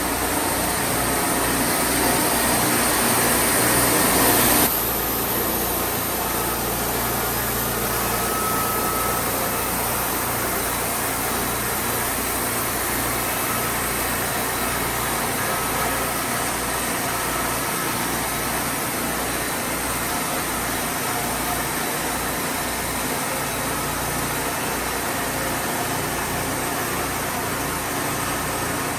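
Wood-Mizer portable sawmill running steadily; louder for the first few seconds, dropping suddenly about five seconds in, then holding steady.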